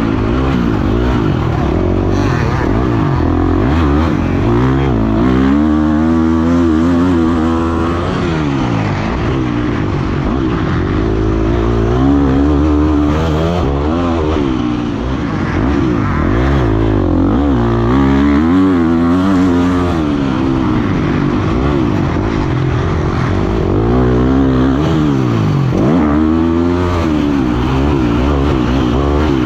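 Dirt bike engine revving hard and backing off again and again as the bike is ridden around a motocross track, its pitch rising and falling every second or two.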